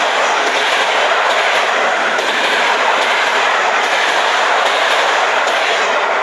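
Passenger train rolling past on the station track: a steady, loud rolling noise with faint regular clicks of wheels running over rail joints.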